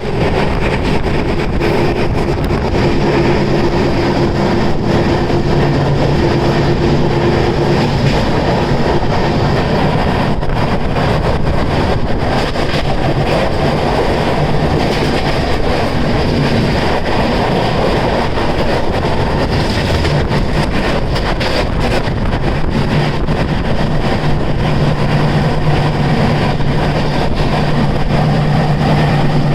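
Steady, loud running noise of a moving vehicle, with a low hum and many short clicks throughout.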